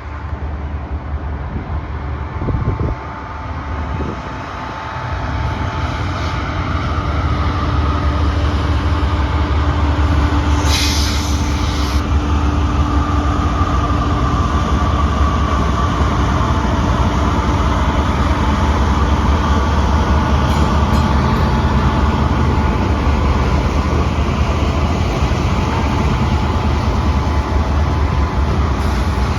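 Norfolk Southern freight train rolling past, its heavy rumble building over the first several seconds and then holding steady. A brief burst of hiss comes about eleven seconds in.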